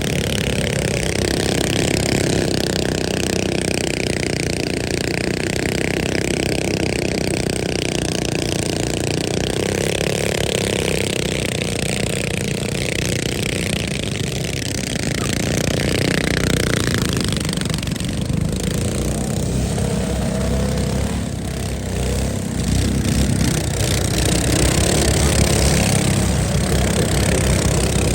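Small minibike engines running and revving, with a change in pitch about halfway through and a louder stretch in the last few seconds.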